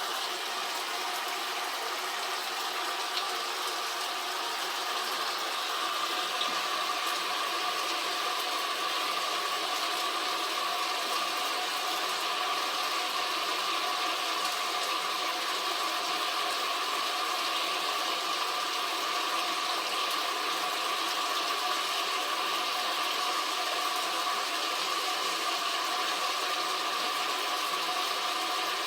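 Shower head spraying water steadily, an even hiss with no breaks.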